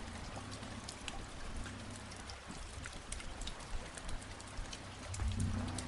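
Steady rain falling, with many individual drops striking close by as sharp ticks, over a low steady hum.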